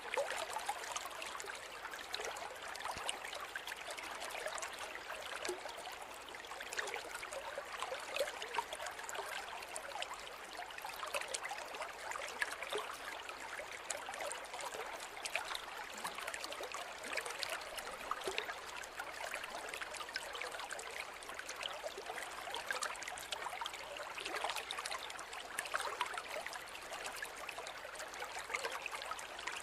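River water flowing steadily over stones, a continuous rushing with small splashes and trickles.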